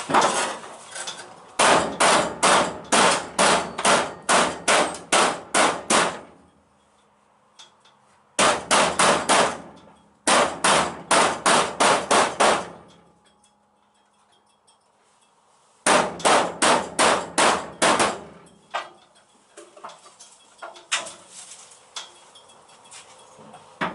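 Hammer tapping a classic Mini's sheet-steel toe board panel to close it up against the adjoining panel for spot welding. The blows come in runs of quick metallic strikes, about three a second, with pauses between runs and a few lighter taps near the end.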